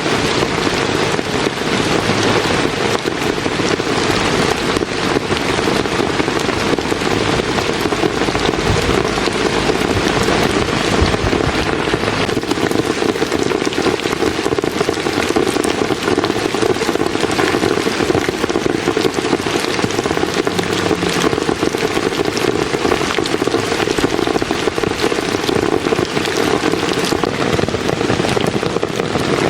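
Heavy rain falling steadily and without letup, a dense wash of countless drop impacts.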